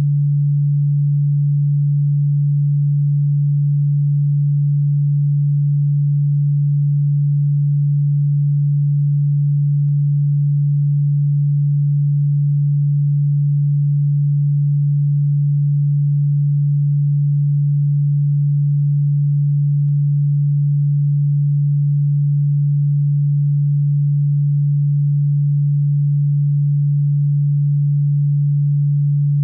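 A steady, unbroken low sine tone at about 150 Hz, a hum that does not change in pitch or loudness. It is played as a cockroach-repellent sound, though the tone itself is low and plainly audible rather than ultrasonic.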